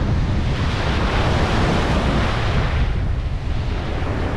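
Ocean surf washing onto the beach, with wind rumbling on the microphone; the wash swells and eases off about three seconds in.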